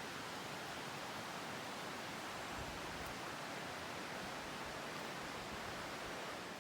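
Steady, even rushing of a mountain stream flowing through the gorge.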